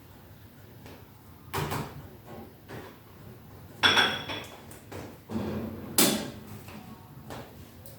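Dishes and utensils clattering: a handful of separate knocks and clinks, one about four seconds in with a short metallic ring.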